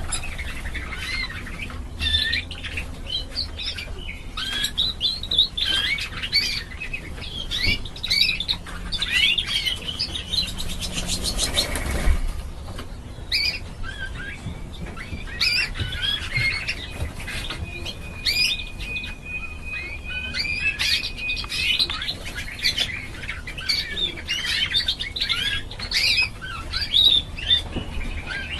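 Domestic canary singing a long, varied song of quick chirps and rolling trills, with a rapid buzzing rattle near the middle and one long held whistle a little later. It is the kind of full song played to get a silent canary to start singing again.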